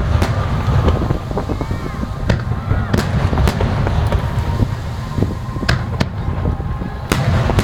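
Aerial fireworks display: a rapid series of sharp bangs from bursting shells, over a continuous low rumble and crackle.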